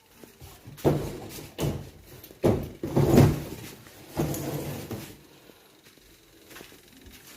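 Onida washing machine cabinet being tipped over and handled: a series of knocks, bumps and scrapes, the loudest about three seconds in, dying down to light handling noise after about five seconds.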